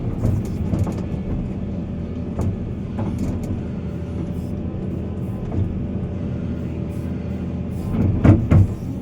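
Heavy diesel earthmoving machinery running steadily, with scattered knocks and a louder cluster of clanks about eight seconds in.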